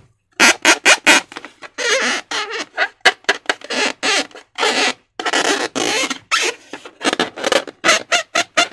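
Slime being squeezed and worked with a rubber balloon, giving a rapid, irregular string of short wet squelches, crackles and squeaks.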